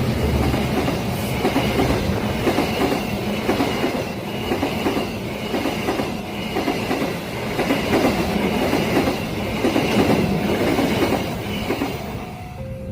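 Train cars rolling past, the wheels clattering over rail joints in a steady rhythm, with a high thin tone running above it. The sound dies down near the end.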